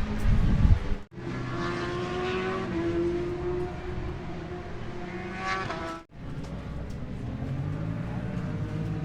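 Racing motorcycle engines running and revving, in three short stretches split by abrupt cuts about a second in and about six seconds in.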